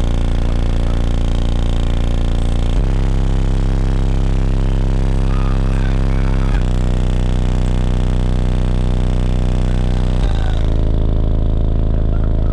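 High-powered car stereo subwoofers playing loud, sustained deep bass notes that step to a new pitch about every four seconds.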